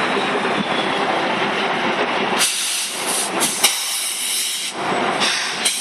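Tow truck running with a steady rush of noise, then loud bursts of hissing from a little under halfway through, with the low rumble dropping away.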